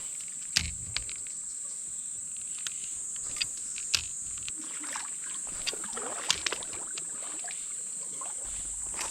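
Insects buzzing steadily at a high pitch, with scattered sharp clicks and knocks over it.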